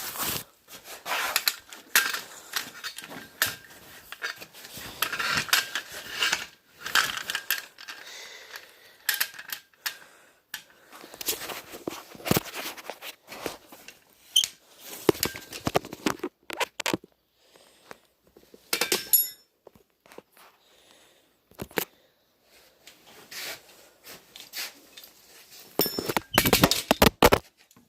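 Irregular clanks, clicks and scraping of metal parts and tools being handled. A louder burst of clattering near the end as the camera tripod falls over.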